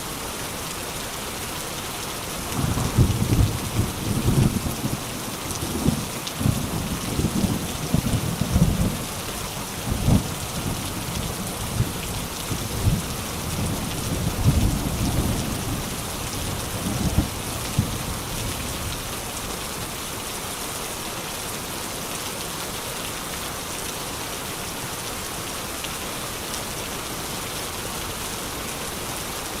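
Steady rain falling, with a long roll of thunder that starts a few seconds in, rumbles low with repeated peaks for about fifteen seconds, then dies away, leaving only the rain.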